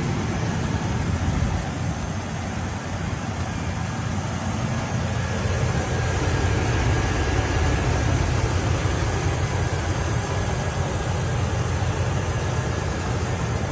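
A car engine running steadily, with a low rumble that swells slightly in the middle.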